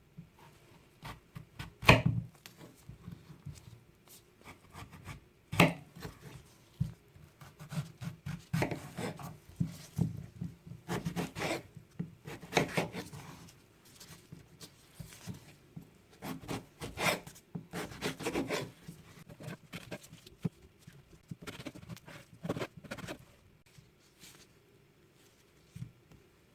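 Kitchen work on a wooden cutting board: irregular knocks and scraping of a knife or utensils against the board.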